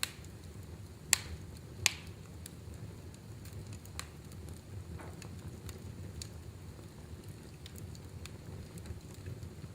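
Wood fire crackling in a fireplace: a steady low rumble of flames with scattered sharp pops and snaps, the two loudest about a second in and just before two seconds.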